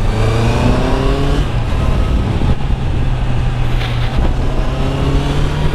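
Honda CBR650F's inline-four engine, restricted to 48 PS for the A2 licence, running under throttle as the motorcycle is ridden. Its pitch rises over the first second and a half and again near the end as the bike accelerates.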